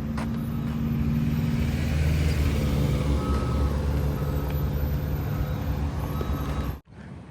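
A heavy road vehicle's engine, likely a truck, running close by as a steady low drone. It stops suddenly near the end.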